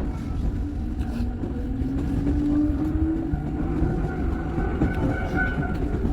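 Iyotetsu electric train running on the rails: a steady rumble with a motor whine that rises in pitch over the first few seconds.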